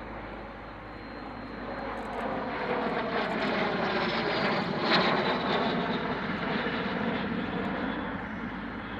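An aircraft engine passing by. It grows louder, is loudest about five seconds in, and its pitch falls as it goes past, then it fades slowly.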